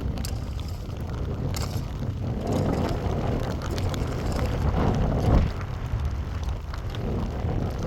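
Wind buffeting the microphone: a steady low rumble that swells stronger for a few seconds in the middle.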